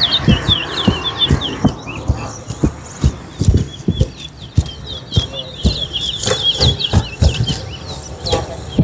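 Caged towa-towa finch singing a long, fast string of high chirping notes, one song of the kind counted in a singing race. Uneven low knocks and thumps sound underneath.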